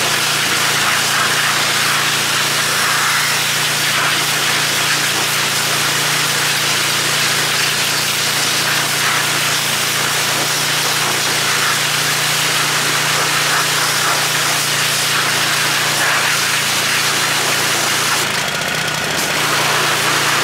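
Pressure washer running, its motor humming steadily under the constant hiss of the water jet as it sprays down the wheel rims.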